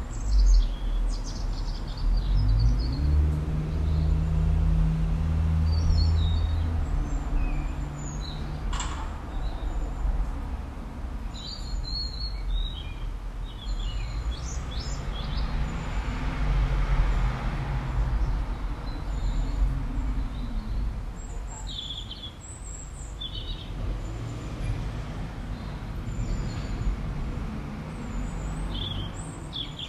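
Small birds chirping and tweeting in short scattered calls over a steady low rumble and hum, which is loudest in the first several seconds.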